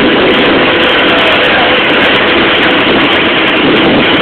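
Loud, steady roar of a running jet aircraft engine, with a faint steady whine above it.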